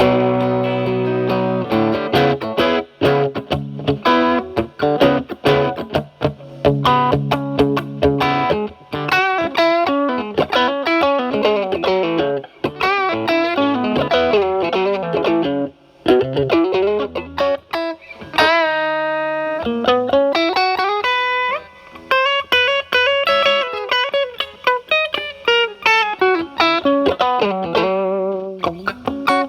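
Stratocaster with alnico single-coil pickups played through a Timmy transparent overdrive pedal, its gain set at 12, into a Marshall Valvestate amp's clean channel, giving a lightly overdriven tone. A held chord opens, then quick picked single-note lead lines, with one long sustained note with vibrato about two-thirds of the way in.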